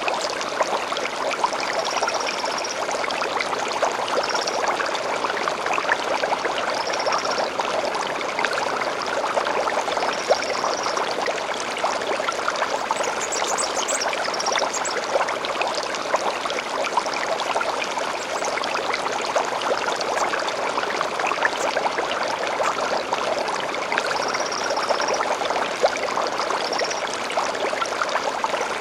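Stream flowing steadily, with short high birdsong phrases every few seconds over it and a higher, quicker flurry of song about halfway through.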